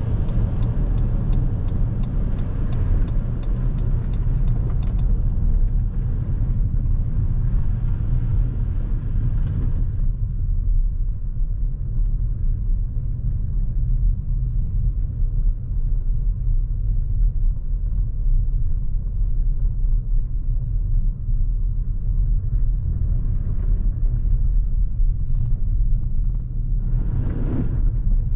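Lexus NX350h hybrid SUV driving on a winter road: a steady low rumble of tyre and road noise. A higher hiss runs over the rumble and drops away about ten seconds in. Near the end a short whoosh swells and fades.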